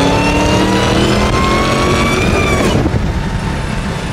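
Dodge Hellcat Jailbreak's supercharged 6.2-litre HEMI V8, on a Stage 1 Direct Connection tune, pulling hard under acceleration, heard from inside the cabin. The engine note climbs steadily, then the throttle lifts about three seconds in and it falls to a low cruising rumble.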